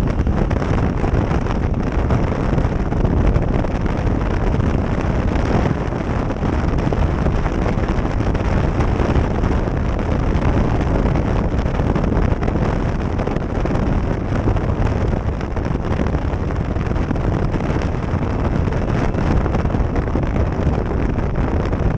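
Wind buffeting a helmet-mounted GoPro Session's microphone on a moving motorcycle, a steady heavy rushing that drowns out the engine.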